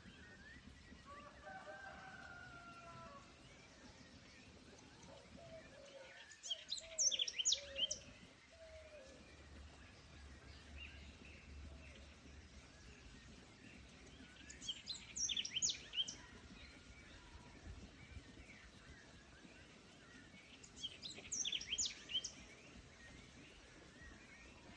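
A songbird sings a short, quick, high-pitched phrase three times, about seven seconds apart, over faint forest ambience. Near the start, another bird gives lower, drawn-out calls.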